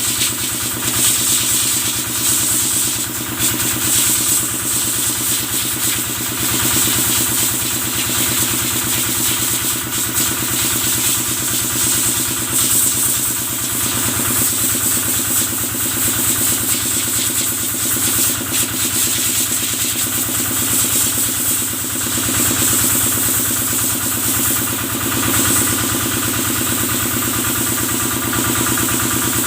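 Kubota diesel engine running steadily, driving the pump of a cattle-washing sprayer, with a steady high hiss over it.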